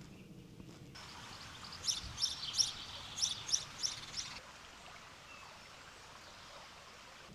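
A small songbird calling a quick run of about eight short, high chirps, over a steady hiss of outdoor background noise.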